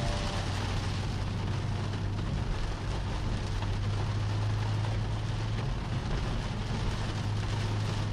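Rain on a moving car with a steady low hum of engine and road noise.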